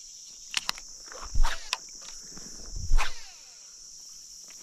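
Steady high-pitched chirring of insects, with a few sharp clicks and two dull thumps, the louder one about three seconds in.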